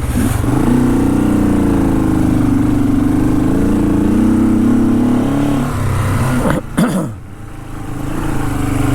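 Honda CL450's 444 cc parallel-twin engine running under steady throttle, its note wavering slightly. About six and a half seconds in, the revs drop sharply for a moment, then climb back up.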